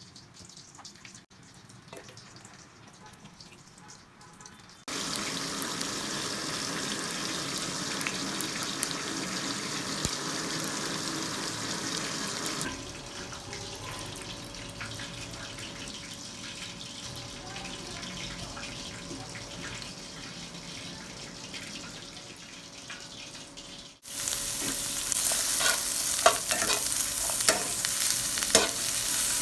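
Tilapia frying in hot oil in a pan, with a steady sizzle. It starts faint, jumps loud about five seconds in, drops back at about halfway, then turns loud again suddenly near the end, where a few clicks of a utensil against the pan come through.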